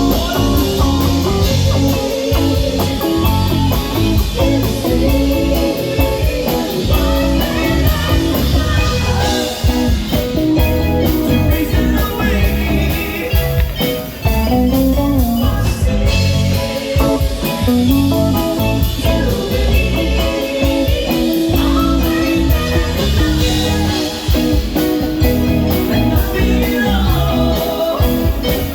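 Live band playing a soft-rock song, with guitar, drums and a singer.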